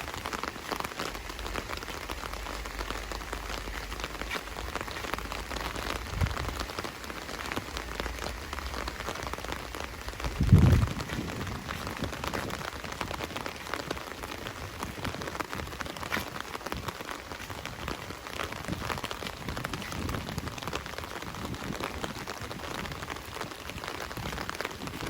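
Steady rain falling, heard as an even hiss dotted with countless separate drop ticks. About ten seconds in comes a brief dull low thump, the loudest moment, and a softer one a few seconds earlier.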